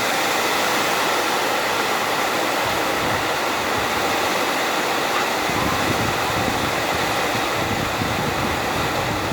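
Heavy rain pouring down in a steady hiss, with a deeper low rumble coming in about halfway through.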